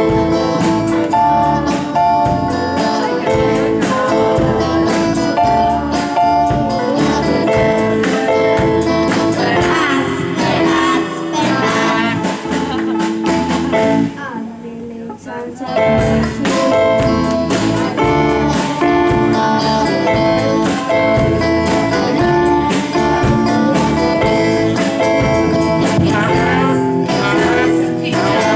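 A live band playing a song: a singer over electric guitar, keyboard and drum kit, with a short break about fourteen seconds in before the band comes back in.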